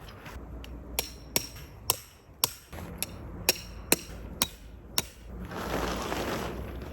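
A hammer striking metal about nine times, roughly two blows a second, each with a short metallic ring. Near the end the blows give way to a longer crunching, rustling noise.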